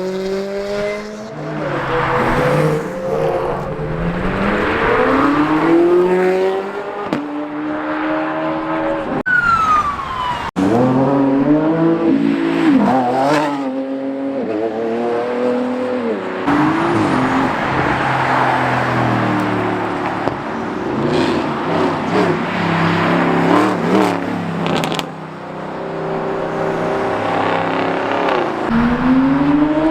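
Car engines revving hard one after another as cars accelerate past and away, each rising in pitch through a gear and then dropping back.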